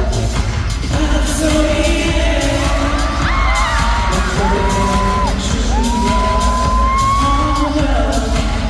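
Live pop performance: a male vocalist sings over a backing track with a steady beat, holding several long notes that glide at their starts and ends.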